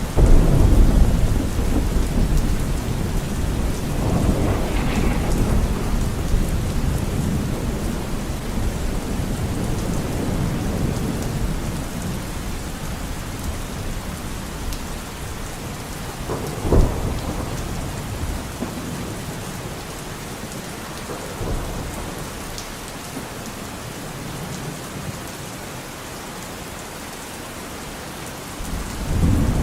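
Steady rain with rolling thunder. A long low rumble opens and fades over several seconds, a shorter, sharper clap comes about halfway through, and another rumble starts near the end.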